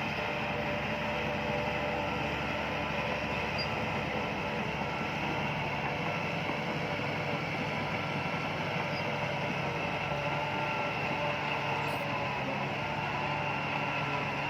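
Heavy diesel earthmoving machine running steadily, a continuous engine drone with no change in pitch.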